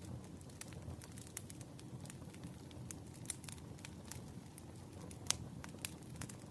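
Wood fire burning: a low steady rumble with irregular sharp crackles and pops of burning firewood, two louder snaps near the end.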